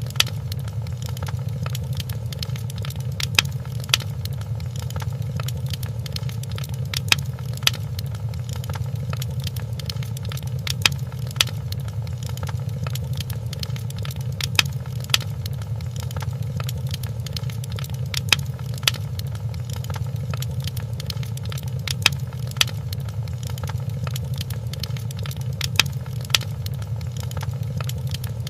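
Fireplace crackling: a steady low rumble of burning logs with sharp pops, mostly in pairs a few seconds apart.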